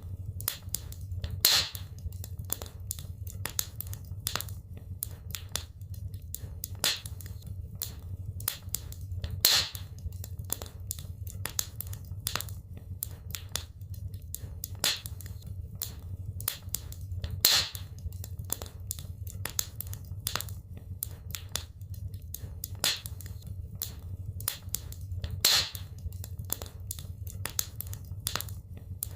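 Wood fire crackling in a fireplace: a constant patter of small crackles with a louder pop about every eight seconds, over a steady low rumble.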